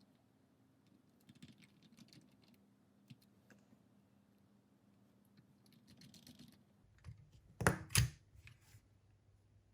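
Small clicks and light scratching of hand tools working on a cassette player's circuit board. Two sharp clicks come close together about eight seconds in and are the loudest sounds, followed by a few fainter ticks.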